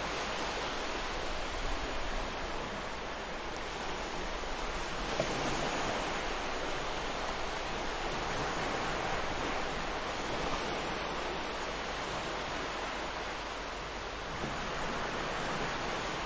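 Ocean waves breaking and washing up on a beach, a steady surf hiss that swells and eases gently, with wind on the microphone.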